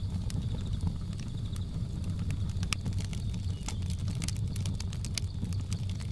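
Wood fire crackling, with irregular sharp pops and snaps over a steady low rumble. Behind it, jungle ambience with a faint, steady high trill.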